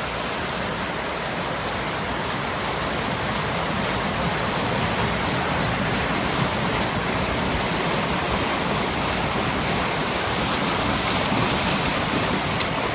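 Rushing water of a coastal lagoon breaking out through its sandbar channel to the sea: a steady, dense rush of fast-flowing water with no let-up.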